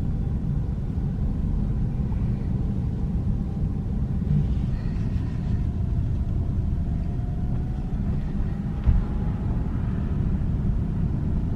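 Road and tyre rumble inside the cabin of a Tesla Model S driving on rough town streets, with a faint whine that rises and falls. One sharp knock comes about nine seconds in.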